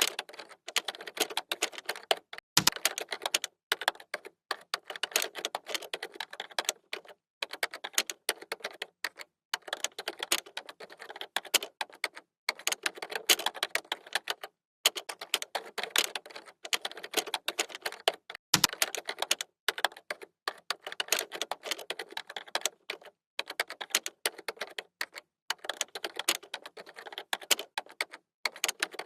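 Typing on a computer keyboard: fast runs of key clicks broken by short pauses. Twice there is a heavier, deeper thud among the keystrokes, a few seconds in and about two-thirds of the way through.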